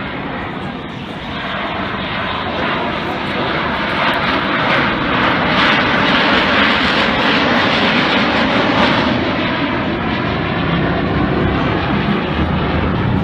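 Jet noise of a Eurofighter Typhoon's twin Eurojet EJ200 turbofans as the fighter passes. The noise builds to a peak about six to eight seconds in, then dulls and eases off as the jet moves away.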